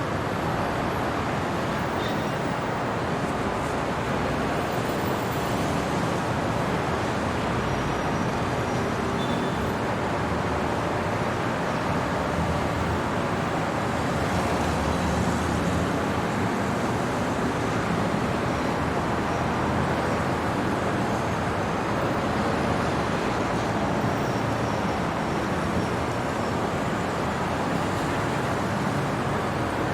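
Steady city traffic noise at night: a continuous wash of passing road vehicles.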